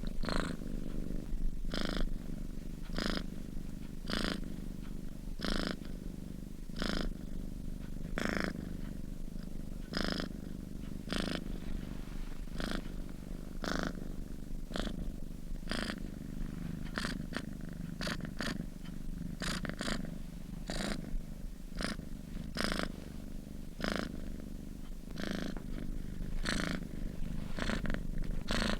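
A sleeping domestic cat purring steadily, the purr swelling in a regular pulse with each breath about once a second.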